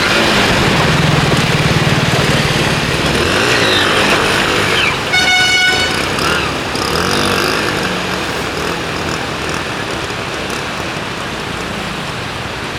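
Road traffic with engines running, and one vehicle horn honking briefly about five seconds in.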